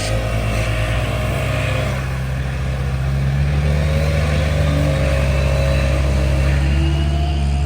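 Large engine running steadily under load, its pitch rising a little about a second and a half in and then holding.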